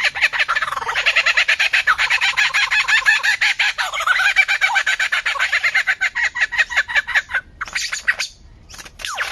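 A bird singing a rapid, dense string of repeated notes. The song breaks off about seven and a half seconds in, then resumes near the end as a run of quick falling whistles.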